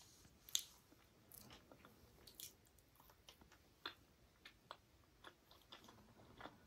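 Close-miked wet chewing and lip smacking of a soft, syrup-soaked rasgulla: irregular small clicks and squelches, with one sharper smack about half a second in.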